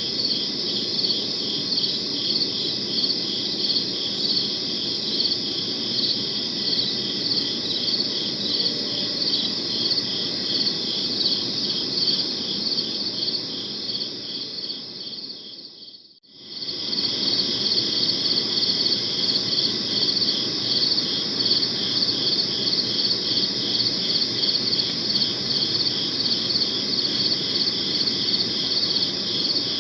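Crickets chirping in a dense, steady pulsing chorus over a soft low hiss. The whole sound fades out briefly about halfway through and swells straight back in.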